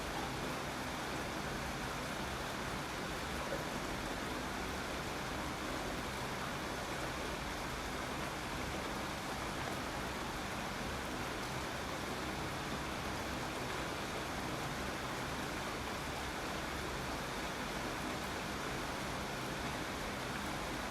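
Steady rainfall, an even hiss with no single drops or gusts standing out.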